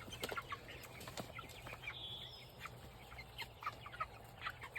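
A flock of young meat chickens peeping and clucking over fresh feed, with scattered short taps.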